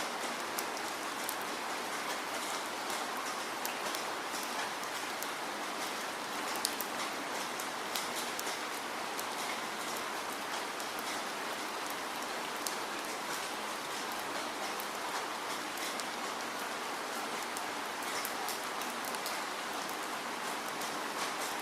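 Steady falling rain: an even hiss of rainfall with scattered sharp ticks of individual drops striking a surface.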